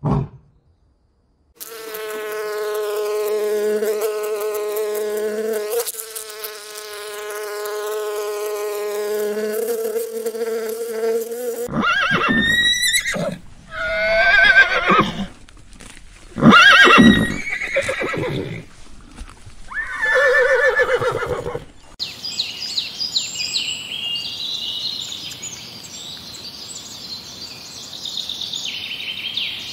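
A row of animal sounds: first a steady buzzing drone, like a flying insect; then several bouts of shrill, whinnying calls that rise and fall in pitch, the neighing bark of a zebra; then rapid high chirping near the end.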